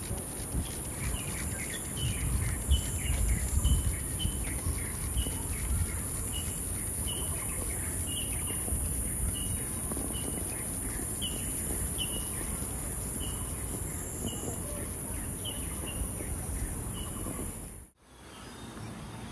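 Birds chirping in park trees, a short call that hooks downward and repeats about twice a second. Under it is a steady high-pitched hiss and a low background rumble. Near the end the sound drops out sharply and comes back quieter, without the hiss.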